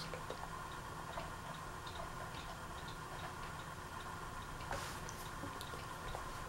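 Fanimation Coop ceiling fan running on low: a steady motor hum with light, repeated ticking a few times a second. A short louder rustle about three-quarters of the way through.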